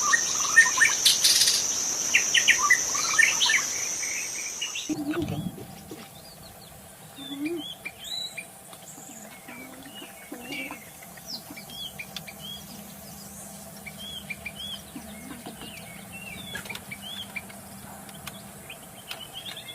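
White-rumped shama singing varied, loud phrases over a steady high insect drone; about five seconds in the drone stops abruptly and the rest is quieter, short repeated chirps over a faint steady hum.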